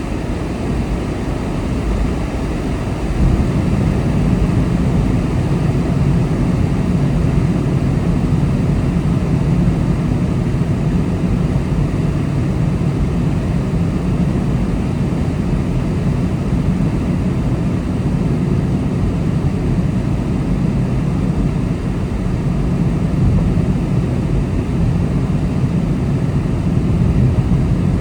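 Car on the move: a steady low rumble of road and engine noise, growing louder with a deeper hum about three seconds in.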